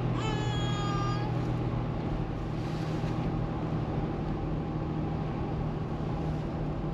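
Car interior noise while driving: a steady low engine and road hum with an even hiss of tyres. A brief high-pitched whine sounds in the first second.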